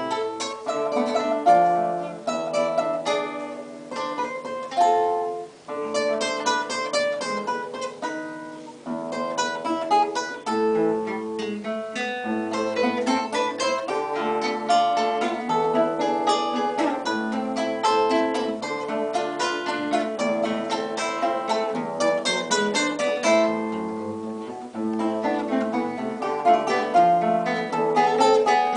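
Instrumental duet of plucked string instruments, likely guitar-family, playing a lively piece with quick picked notes over a lower accompaniment.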